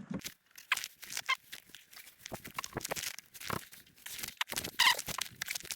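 Hardware being handled and fastened by hand: an irregular run of clicks, knocks and scrapes, with a couple of short squeaks, about a second in and again near the end.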